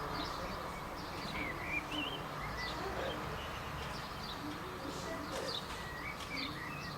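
Several small birds chirping and singing, short twittering calls throughout, over a steady background hiss.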